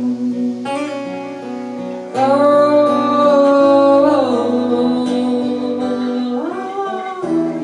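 Acoustic guitar playing between sung lines, with a man's voice holding long wordless notes over it in two stretches.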